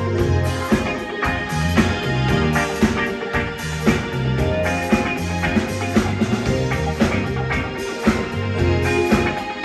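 Live band playing a rock song during a rehearsal: drum kit keeping a steady beat under a moving bass line and guitar.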